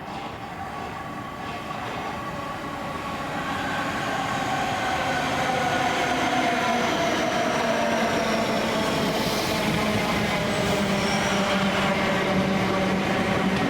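A train approaching the station and running past. Its sound grows louder over the first six seconds or so, then holds at full strength. Several thin whining tones slide slowly down in pitch over the rush of the wheels.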